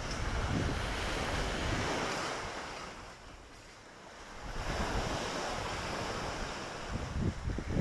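Lake Victoria waves washing on the shore, with wind buffeting the microphone. The wash falls away about three seconds in and swells again a second and a half later.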